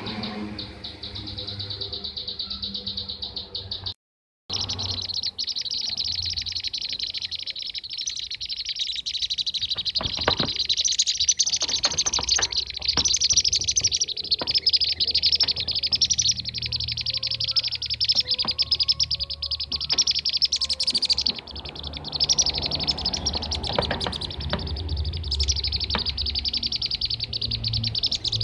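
Dense, continuous rapid chirping of a flock of kirik-kirik birds (bee-eaters), played as a lure track to call wild birds in. The sound cuts out completely for about half a second, about four seconds in.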